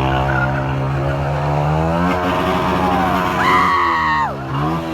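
Car engine revving: it holds steady, climbs in pitch about two seconds in, drops back and climbs again near the end. A brief high-pitched squeal sounds over it for under a second, about three and a half seconds in.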